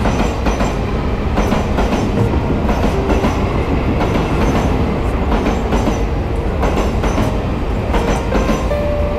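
Electric express train passing close by along a station platform: a steady rumble of wheels on rail, with repeated clacks as the wheels cross rail joints.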